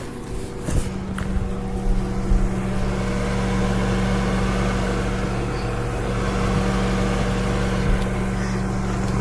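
A few clicks, then about a second in a microwave oven starts heating and runs with a steady hum.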